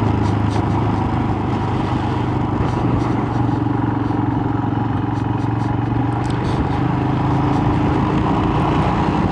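Royal Enfield Himalayan's single-cylinder engine running at a steady cruise, heard from the rider's position while riding.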